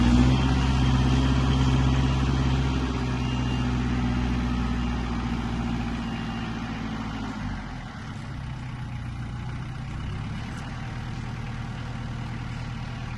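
A vehicle engine running steadily with a low hum, getting quieter about halfway through and then running on more faintly.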